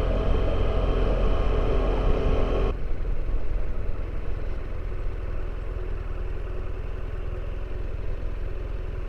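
Motorcycle engine running under a low rumble of wind and road noise. About three seconds in, the engine's higher tones drop away abruptly, leaving a quieter low rumble.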